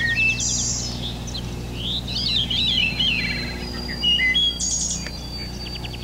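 Several birds singing and calling at once: overlapping chirps, whistles and fast trills, with a steady low hum underneath.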